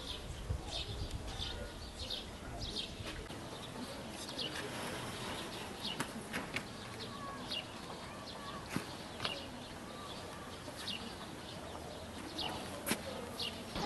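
Small birds chirping: many short, high chirps repeating throughout, with a few sharp clicks in between.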